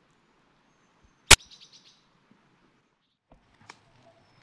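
A sharp, loud click about a second in, followed at once by a small bird's quick run of about five high chirps. A few soft ticks come later over a faint outdoor background.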